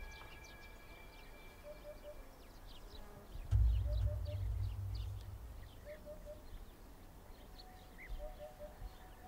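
Small birds chirping in short, scattered notes, with a soft low three-note call repeating about every two seconds. A low rumble swells up about three and a half seconds in and fades over a second or so.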